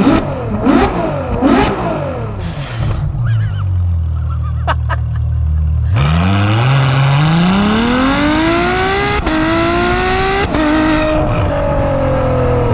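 Ferrari F12 Berlinetta's 6.3-litre V12 on the move: a few quick blips up and down in the first couple of seconds, a few seconds of low steady running, then a long rising howl under hard acceleration from about halfway, broken by two fast upshifts, easing off near the end.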